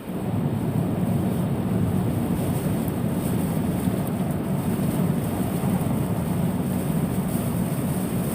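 Steady low rumble of road traffic, starting abruptly and holding level throughout.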